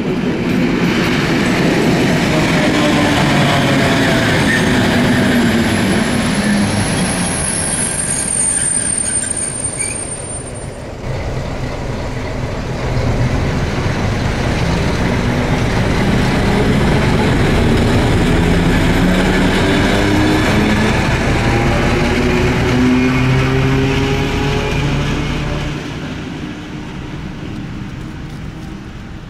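A train passing over a level crossing: a loud rumble and clatter of wheels on the rails, with a high wheel squeal about five to ten seconds in. The locomotive's engine note slides in pitch as it goes by. The sound fades over the last few seconds.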